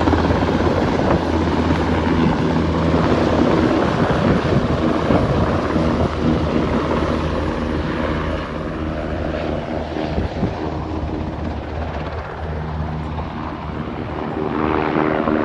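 Military helicopter in flight, its rotor and turbine engine running steadily with a rapid rotor beat. It grows a little fainter about twelve seconds in, then louder again near the end.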